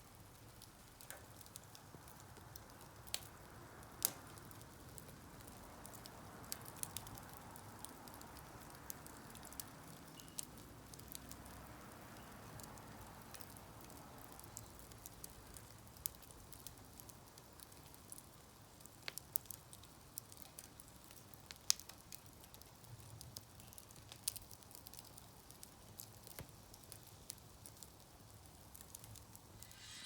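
Wood campfire crackling faintly, with irregular sharp pops scattered over a low steady hiss.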